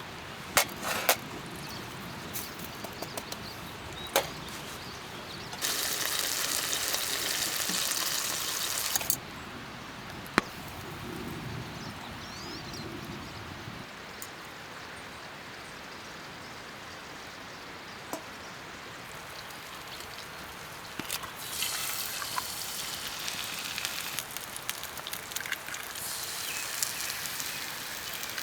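Breakfast cooking at a camp stove: sharp knocks and clinks of cookware, and two stretches of steady hissing, the loudest from about six to nine seconds in and another from about twenty-one seconds to near the end.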